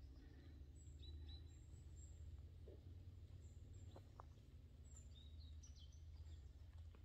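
Near silence with a few faint, short, high bird chirps scattered through, over a low steady rumble.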